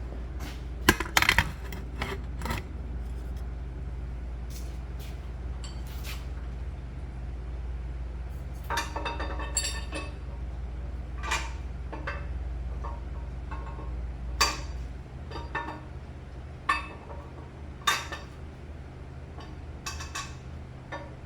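Scattered sharp metallic clinks and knocks of steel engine parts and tools being handled while a camshaft is worked out of a Packard engine, several with a brief ring. A low steady hum underneath stops about three-quarters of the way through.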